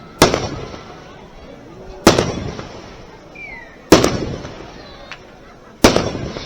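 Aerial firework shells bursting: four loud bangs about two seconds apart, each trailing off in a rumbling echo.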